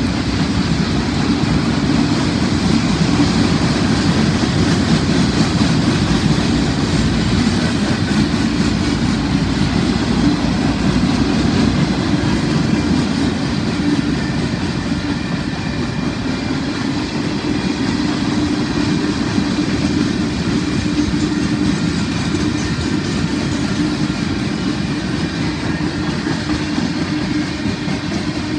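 Freight train cars rolling past at close range: steady noise of steel wheels running on the rails, unbroken.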